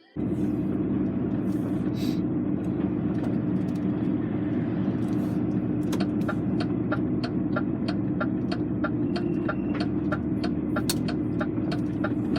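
Lorry's diesel engine and road noise heard from inside the cab while driving, a steady drone. From about halfway, a run of short sharp ticks repeats at roughly two a second.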